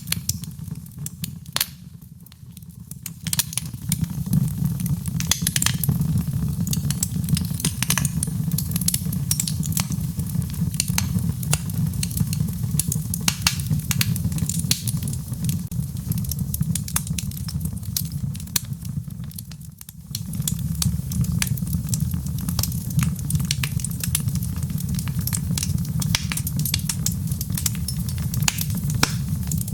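Wood fire in a fireplace crackling and popping, with many sharp snaps over a steady low rumble of the flames. The level dips briefly twice, about two seconds in and about two-thirds of the way through.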